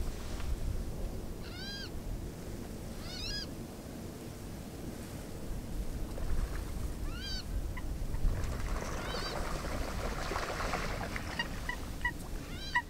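A bird giving about five short, arched calls, a few seconds apart, with a few faint short ticks near the end, over a steady low rumble.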